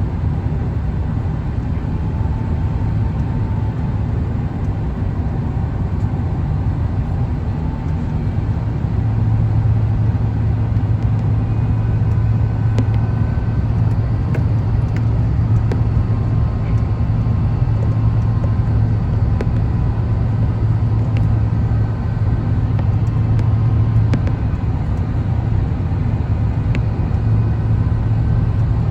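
Steady low rumble inside the cabin of an Airbus A350-1000: airflow and its Rolls-Royce Trent XWB engines heard from a window seat by the wing. The low hum grows stronger about nine seconds in and holds there.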